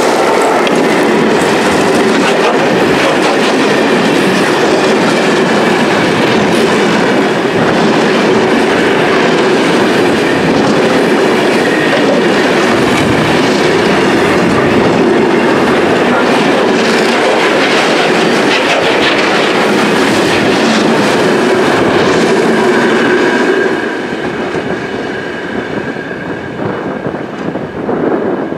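A train running on rails, loud and steady, growing quieter about 24 seconds in.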